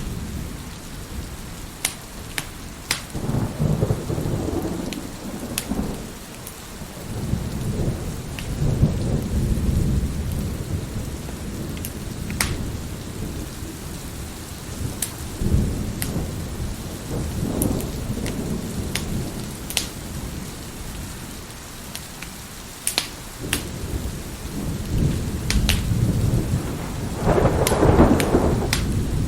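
Steady rain with rolling thunder that swells and fades several times, the loudest rumble near the end. Over it a wood fire crackles, with scattered sharp pops.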